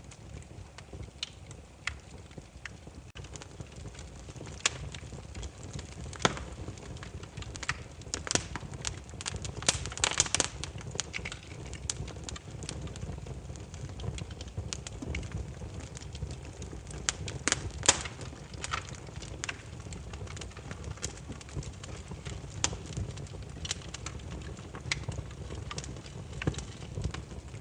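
Burning firewood crackling, with irregular sharp pops over a steady low rumble of the flames; the pops come thickest about eight to eleven seconds in.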